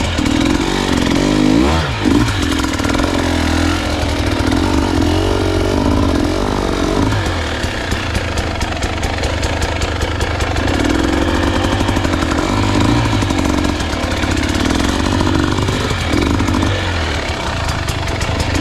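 Dirt bike engine running at low trail speed, its pitch rising and falling every few seconds as the throttle is opened and closed.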